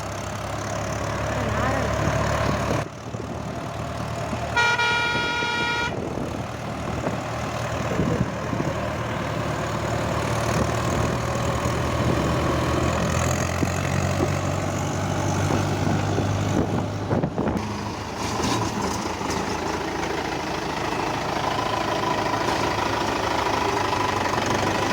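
Tractor engine running steadily, with a vehicle horn sounding once for about a second and a half, about five seconds in.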